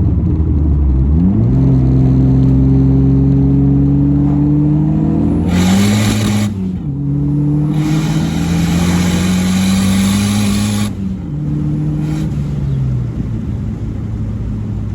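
Dodge SRT-4's big-turbo 2.4-litre four-cylinder engine accelerating hard through two gears, with a gear change about six seconds in and the revs falling away near the end. A loud hiss rides over each pull while in boost: the wastegate dump, which hurts the ears.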